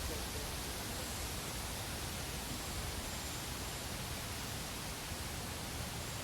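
A steady, even hiss with no distinct sound standing out.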